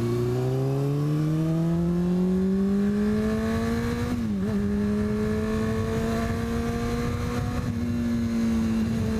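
Motorcycle engine through an aftermarket exhaust, accelerating with its note rising steadily for about four seconds, dipping briefly at a gear change, then holding a steady cruising note.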